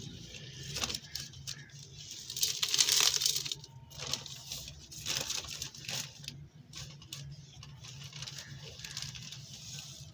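Dry, dusty red dirt clumps crumbling with a crisp, crunchy crackle, made of irregular small cracks and grains pattering down, loudest in a dense stretch about two and a half seconds in.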